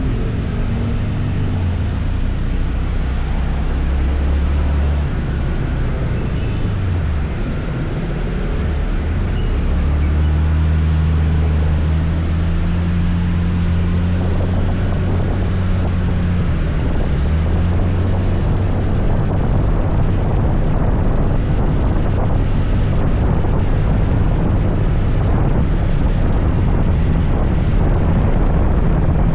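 Scooter engine running while riding, its pitch dropping twice as it eases off and then rising again as it speeds up, with wind buffeting the microphone, which grows stronger in the second half.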